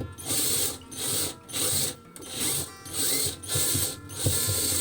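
Ratchet wrench being worked back and forth to loosen a bolt: a run of rasping clicks on each swing, about seven strokes in steady rhythm.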